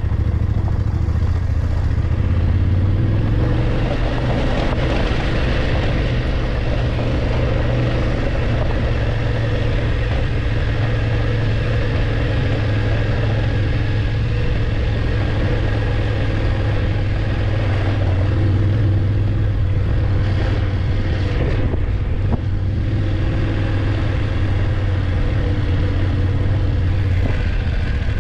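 BMW F850GS motorcycle's parallel-twin engine running steadily while riding, with wind and road noise over it; the engine note shifts a little about three seconds in.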